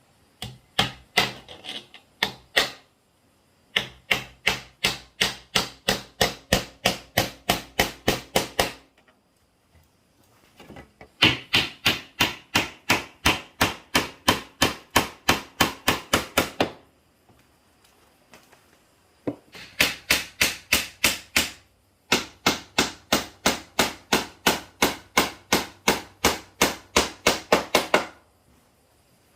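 Hammer blows on wood, about three to four strikes a second, in five runs of rapid blows with short pauses between them, as when driving nails into a wooden bed frame.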